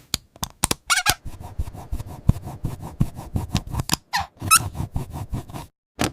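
Comic sound effects: a fast, uneven run of clicks and taps, with two short high squeaks, one about a second in and one just past four seconds in.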